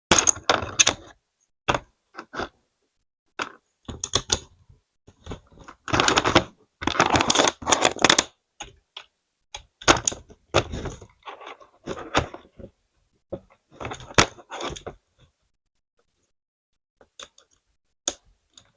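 Plastic LEGO pieces clicking and clattering in irregular bursts as they are handled and knocked together, with a few sparse clicks near the end.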